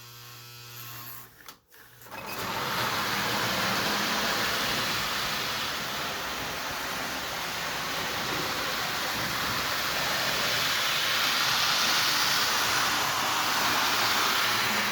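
Lionel 259E tinplate toy steam locomotive and freight cars running in reverse on three-rail track: a steady whirring rattle of the electric motor and wheels that starts about two seconds in, after a low steady hum and a brief break.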